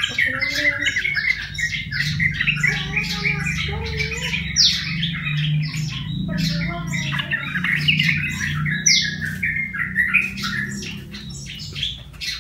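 Yellow-vented bulbul (trucukan, jogjog), a wild-caught bird about a month in captivity, chattering in quick runs of harsh calls with now and then a short rising note.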